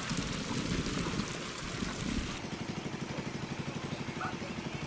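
A stretch of rushing, splashing noise, then about halfway in a small engine starts a rapid, steady putter that runs on. A few short chirps sound near the end.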